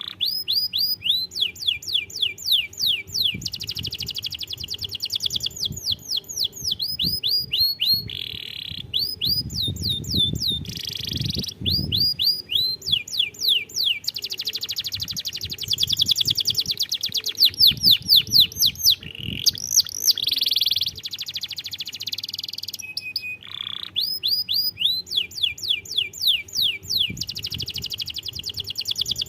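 Domestic canary singing a long song of fast trills: phrases of quickly repeated falling high notes, several a second, broken by short pauses where the phrase changes.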